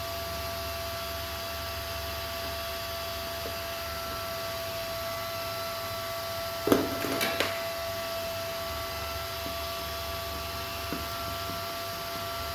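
Steady electrical hum with a thin, constant whine above it. About seven seconds in comes a short burst of knocks and rattles.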